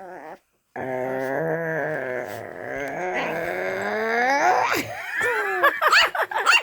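Pet dog giving one long, wavering growl-whine that rises in pitch near its end, followed by a few short yips.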